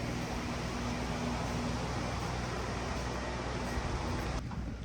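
A motor running steadily with a low hum under a hiss. The hiss cuts off suddenly near the end while the hum carries on.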